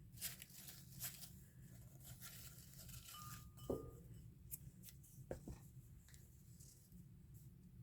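Faint handling of paper scraps: light rustling and small clicks, with one sharper tap a little after the middle.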